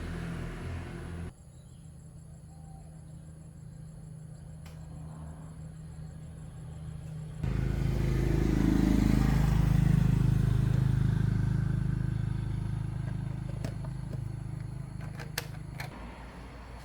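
Small motorcycle engine running, with two abrupt cuts. After the second cut it swells and then fades away.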